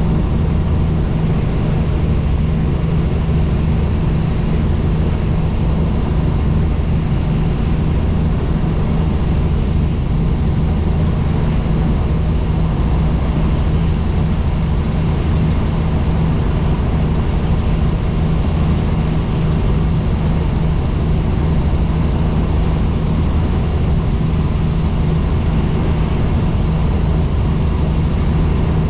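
Helicopter engine and rotor running steadily in flight, a loud constant low drone with a hum over it and no change in pitch.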